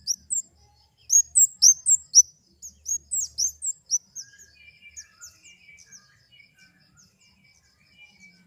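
Flowerpecker calls: a rapid series of sharp, high-pitched, downslurred chips, several a second, loud at first and fading after about four seconds. A fainter, lower twittering runs under them in the second half.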